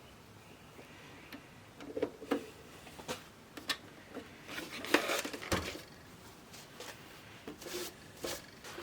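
Irregular clicks, knocks and light clattering of hard objects being handled on a workbench, several sharp taps a second apart with a brief burst of rattling about five seconds in.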